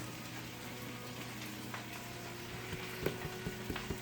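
Oil sizzling steadily in a frying pan, with a few light clicks and taps.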